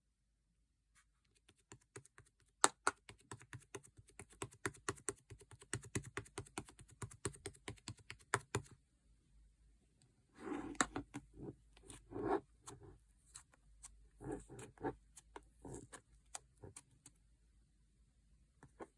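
Slime being worked by hand: a fast run of small crackling clicks and pops for the first nine seconds or so, then after a short pause a few slower, softer squishes.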